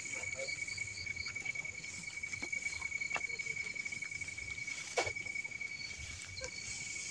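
Insects trilling steadily in a continuous night-time chorus, one voice pulsing about three times a second over a steady higher trill. A sharp click or knock about five seconds in.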